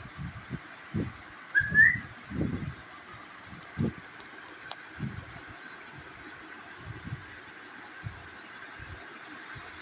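A pet parrot gives one short rising whistle about two seconds in, over scattered low thumps and a steady high-pitched tone that stops near the end.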